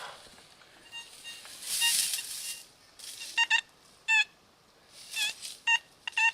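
Metal detector's audio tone sounding in a series of short beeps over a buried target while it is being dug out. One or two of the beeps dip in pitch. There is a brief rustle about two seconds in.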